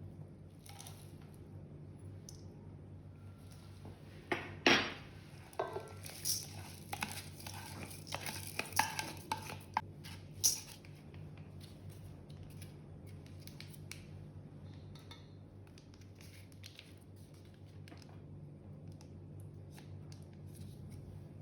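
Kitchen utensils and dishes clinking and knocking, a run of sharp clinks between about four and ten seconds in, over a steady low hum.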